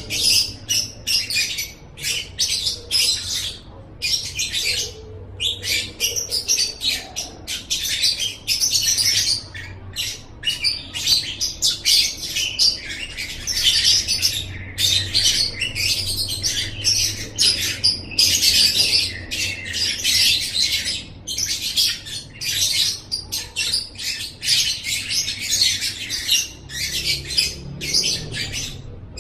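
Lovebird singing: rapid, high-pitched chattering in bursts, some running on for several seconds, with short breaks between.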